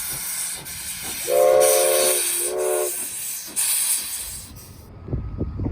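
A train's chime whistle sounds one blast of about a second, then a shorter one, over a loud steady hiss. The hiss cuts off suddenly near the end, leaving a low rumble.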